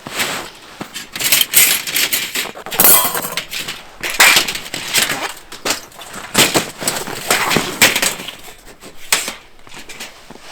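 An irregular run of loud crunches and cracks, about a dozen, with one longer crunching stretch about three seconds in.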